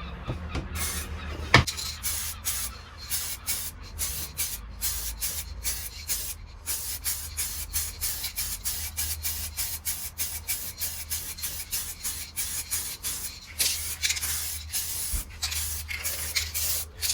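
Aerosol can of clear lacquer spraying a light coat, its hiss coming in many short pulses as the nozzle is pressed and released. There is a sharp click about a second and a half in, and a low hum runs underneath.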